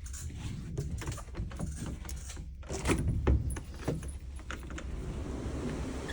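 Clicks, knocks and rattles of a sliding balcony door being handled and opened, followed from about four and a half seconds in by a steady rush of wind.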